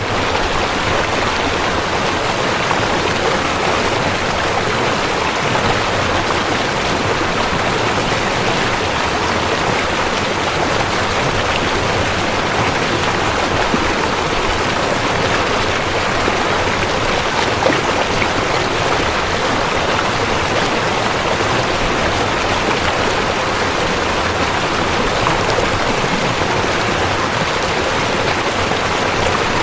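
River water flowing, a steady even rushing with no breaks.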